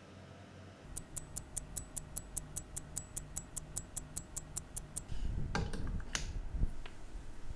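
Citizen 8110A automatic chronograph movement ticking evenly, about five ticks a second, as it runs after reassembly. Near the end the ticking gives way to louder handling noise and a few knocks as the movement is clamped into a timegrapher's microphone stand.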